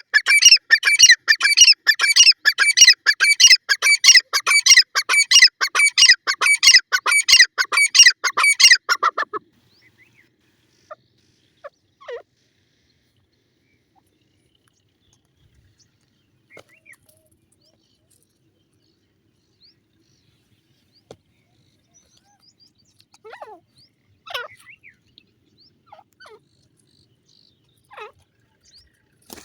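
Grey francolin calling: a loud, fast run of repeated high-pitched notes for about nine seconds that stops abruptly, followed only by faint, scattered calls.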